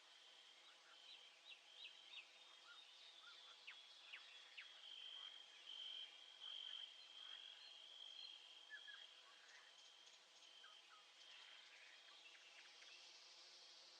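Faint nature ambience: a cricket trilling in a high, steady note that comes in long runs, with many short bird chirps scattered over it.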